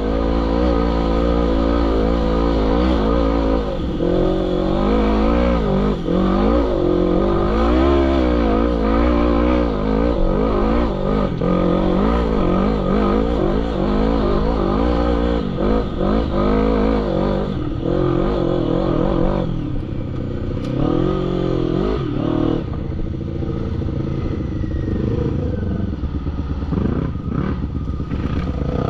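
ATV engine revving hard and unevenly, its pitch rising and falling again and again as the throttle is worked, then settling into lower, steadier running for the last few seconds with some knocks and clatter.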